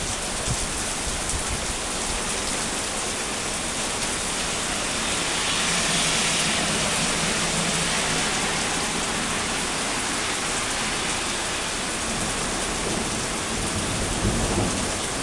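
Heavy rain falling steadily, as a warm summer downpour, briefly growing louder for a few seconds near the middle.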